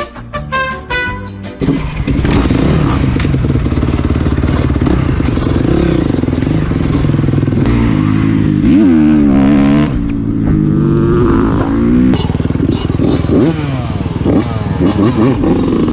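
Dirt bike engines revving as the bikes ride off, pitch rising and falling through the gears. A short burst of music is heard at the very start.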